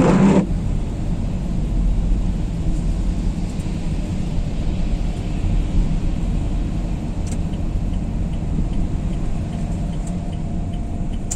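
Steady low rumble inside the cabin of a diesel Renault Kangoo on the move: engine and tyre noise on a wet, slushy, gritted road.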